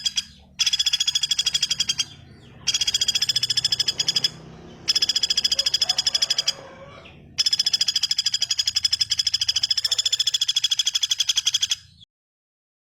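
A small bird's rapid, buzzy trill of fast repeated high notes, given in runs of one to four seconds with short breaks; the last run is the longest and stops about a second before the end.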